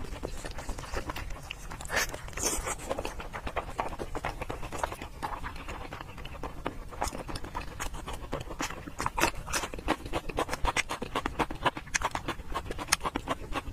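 Close-miked chewing and wet lip smacks of a person eating fatty braised pork belly, a dense run of small sticky clicks and smacks.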